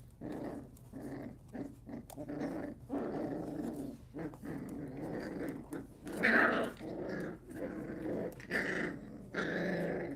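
Puppies growling in rough play-fighting, a run of short growls one after another, loudest about six seconds in.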